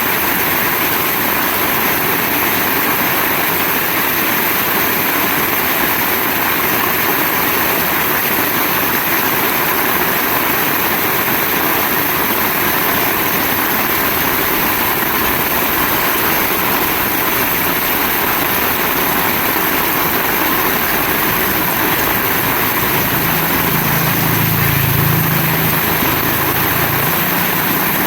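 Heavy rain falling steadily, a dense, even hiss. A low rumble swells in about two-thirds of the way through and fades near the end.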